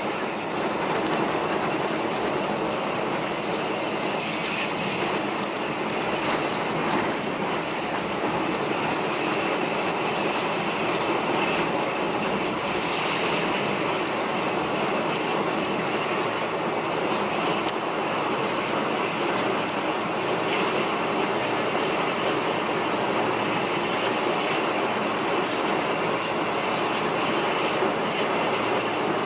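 Steady engine and road noise of a moving intercity coach bus, heard from inside the cabin.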